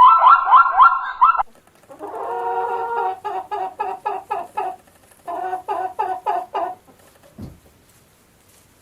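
Chicken clucking in three runs of quick, repeated, pitched calls with short gaps between them.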